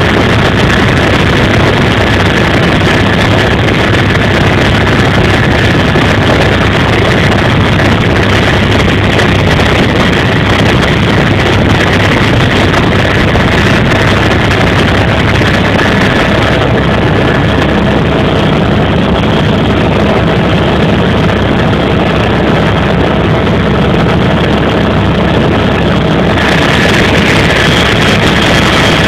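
Helicopter in flight, heard as a loud, steady mix of engine and rotor noise with a constant whine. For about ten seconds in the middle the high hiss drops away while the engine note carries on.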